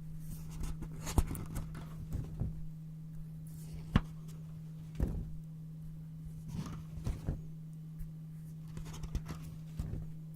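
Brown paper being cut with scissors and handled: irregular sharp snips and short papery crinkles, several clearly louder clicks among softer rustles.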